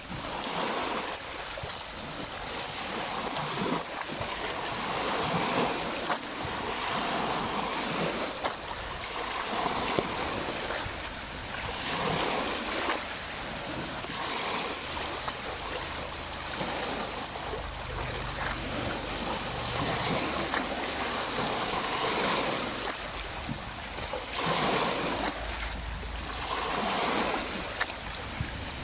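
Small lake waves lapping and washing in irregular swells every few seconds, with gusts of wind buffeting the microphone now and then.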